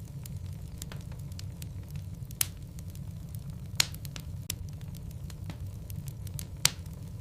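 Wood logs burning in a fireplace: a steady low rumble of flame with scattered small crackles and three sharper pops.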